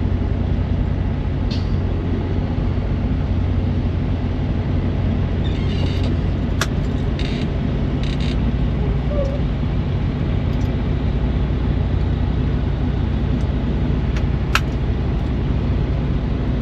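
Diesel engine idling steadily close by, a low even hum, with a couple of sharp clicks, one about six and a half seconds in and one near the end.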